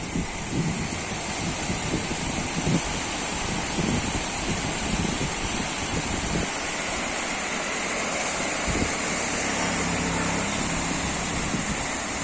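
Wind buffeting the microphone over a steady outdoor rush, with the hum of a vehicle's engine passing for a couple of seconds near the end.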